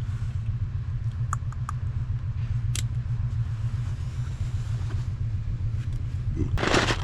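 A steady low rumble, with a few light clicks and a short loud rustling noise near the end.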